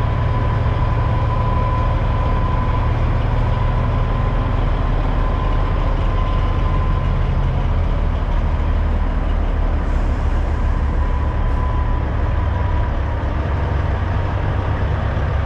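Diesel semi-truck engine running steadily at low revs, a constant low rumble, with a thin steady tone over it that fades out near the end.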